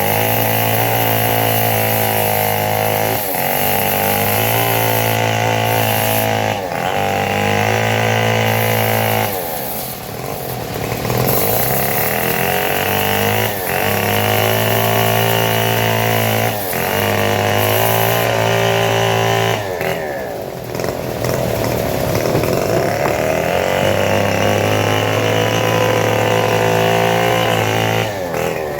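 Small petrol engine of a saw cutting teak, running steadily, its pitch sagging and recovering every few seconds as the blade takes the load.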